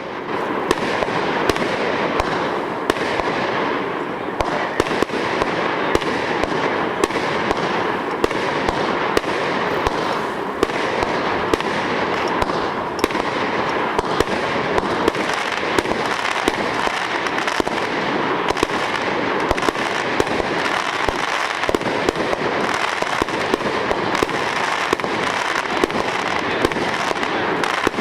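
A 225-shot fireworks repeater cake firing continuously: sharp reports several times a second over a dense, unbroken din.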